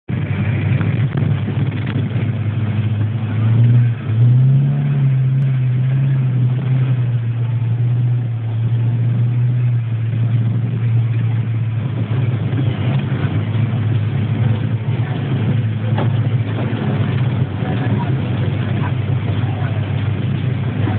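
Car engine heard from inside the cabin while driving, revving up about three and a half seconds in, dropping sharply for a moment near four seconds, then picking up again and settling into a steady run.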